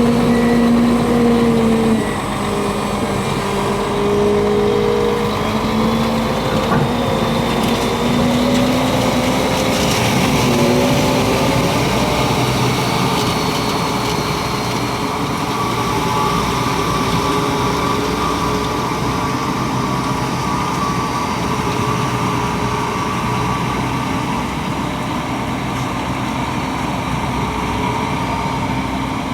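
PistenBully 600 Polar SCR snowcat's Mercedes-Benz OM 460 LA inline-six turbodiesel working under load, with turbo whistle. The engine pitch drops about two seconds in and wavers, and a higher, steady whine of the hydraulic pumps comes in about halfway through.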